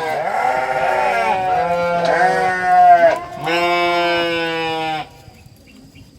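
Goats bleating: about three long, drawn-out calls, one after another, stopping about five seconds in.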